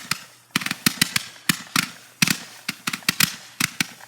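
Fireworks going off in a quick, uneven volley of sharp bangs, several a second, each with a short echoing tail.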